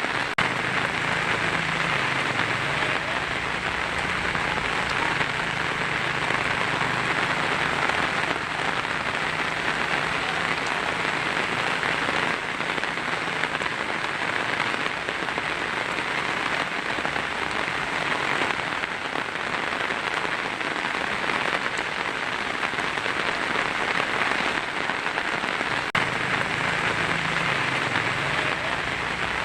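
Heavy rain falling steadily on a tin roof, an even, unbroken patter with no thunder.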